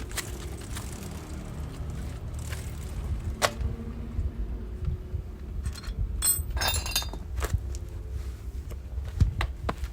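Metal tools and parts clinking and tapping during hand work, with a short ringing metallic clatter about six and a half seconds in, over a low rumble of wind on the microphone.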